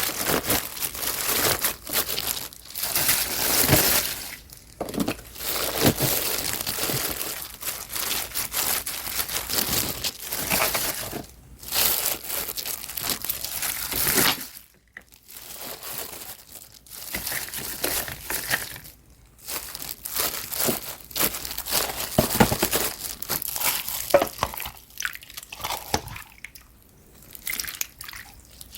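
Crinkly rustling and crunching in irregular bursts, with wet, liquid sounds: young radish greens (yeolmu) being handled and mixed for water kimchi.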